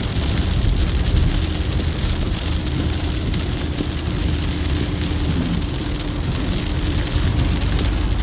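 Heavy rain falling on a moving car, mixed with steady tyre and road noise on the wet highway.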